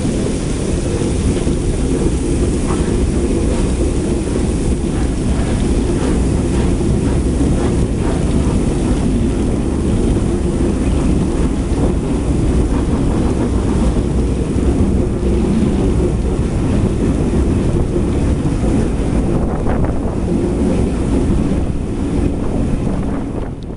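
Train behind a Southern Railway Schools class 4-4-0 steam locomotive running along the line, heard from an open carriage window: a steady rumble of the coaches on the track with wind buffeting the microphone.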